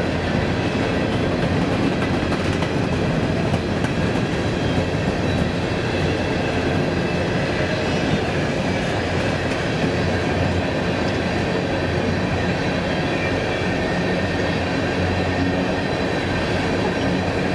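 A train rolling past on the rails, a loud, steady rumble and rattle of cars and wheels that keeps up without a break.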